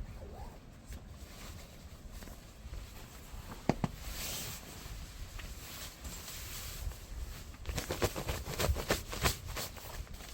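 Burning firewood crackling in a wood stove: two sharp pops about a third of the way in, then an irregular run of crackles and snaps near the end.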